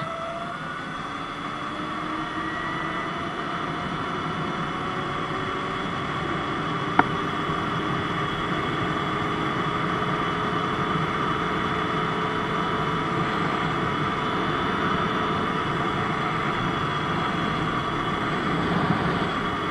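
Sur-Ron X Light Bee electric dirt bike running, its motor whine rising in pitch over the first couple of seconds as it speeds up and then holding steady, over a hiss of tyre and wind noise. A single sharp click about seven seconds in.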